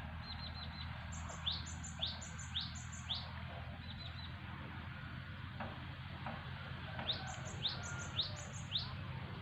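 A songbird calling: two runs of four quick rising chirps, about half a second apart, over a steady low hum.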